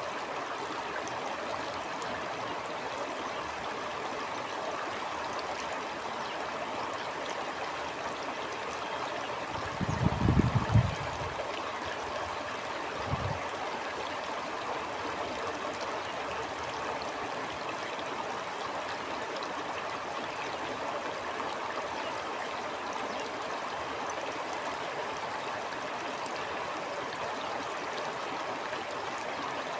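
Steady flow of a stream. About ten seconds in, a brief low rumble stands out as the loudest thing, and a shorter one follows a few seconds later.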